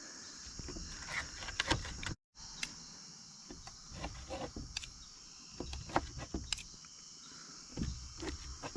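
Knife cutting cooked steak on a cutting board: irregular taps of the blade against the board, with crickets chirring steadily behind. The sound cuts out completely for a moment about two seconds in.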